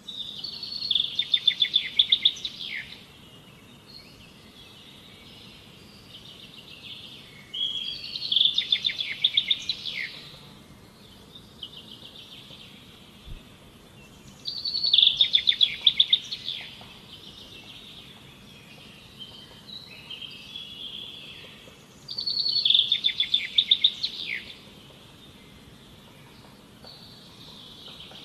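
A songbird repeating a loud phrase of rapid, quickly repeated high notes, each lasting two to three seconds, four times about seven seconds apart, with softer calls between the phrases.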